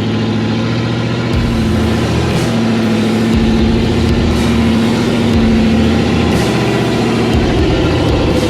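Off-road vehicle's engine running steadily at low revs while crawling a rocky obstacle, with a brief dip in pitch about two seconds in.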